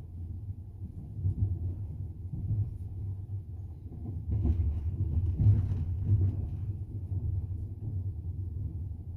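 Double-decker passenger train running along the track, heard from inside the coach: a steady low rumble with the knock of the wheels, and a louder clattering stretch about halfway through.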